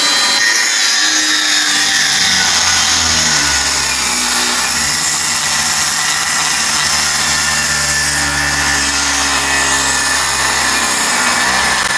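Electric angle grinder with a cut-off wheel cutting metal, running loud and continuous for about twelve seconds, its motor note shifting as the wheel bears into the cut.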